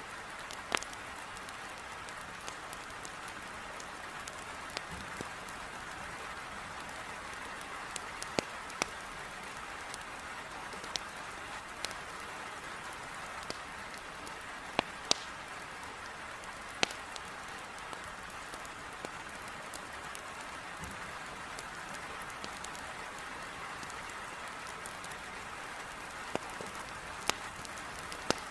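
Heavy rain falling steadily on a window, with sharp pops from a wood fire crackling in a fireplace at irregular intervals, a couple of them louder about halfway through.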